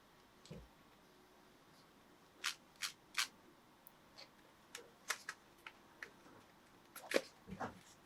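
Hands handling packaging and a model train: irregular short clicks, taps and brief rustles, with a small cluster near the end.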